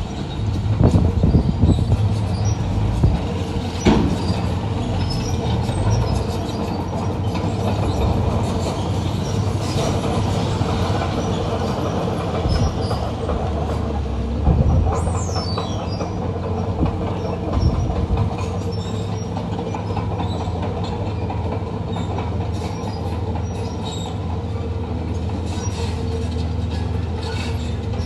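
Crawler bulldozer's diesel engine running steadily, its steel tracks clanking and squealing, with a short falling squeal about halfway through.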